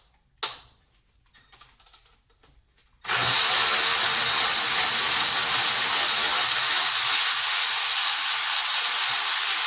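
A few light knocks, then about three seconds in a cordless power tool starts suddenly and runs steadily, spinning out the last alternator mounting bolt.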